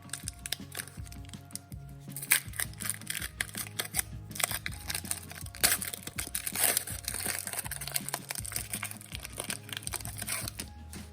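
Foil wrapper of a Pokémon trading-card booster pack crinkling and tearing open, in sharp crackly bursts that come thickest about two seconds in and through the middle.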